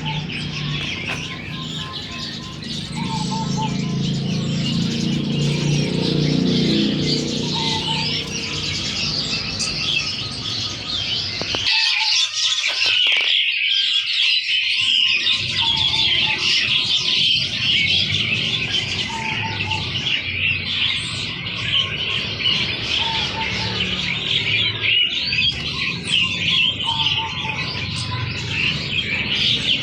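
Many caged songbirds chirping and twittering together in a dense, unbroken chorus. A lower sound underneath cuts off suddenly about twelve seconds in, leaving the birds.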